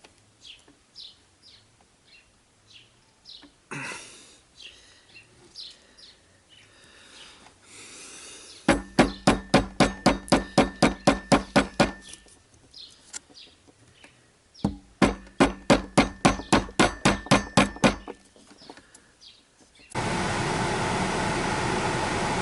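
Rapid hammer taps, about five a second, in two runs of about three seconds each, pressing a part home on a heater blower motor. About 20 seconds in, the Opel Vectra C heater blower motor starts and runs steadily, its newly refitted brushes not yet bedded in.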